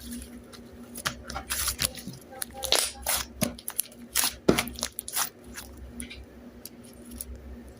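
A quick run of short crackling, tearing and tapping sounds from about a second in until past five seconds, then only a faint steady low hum.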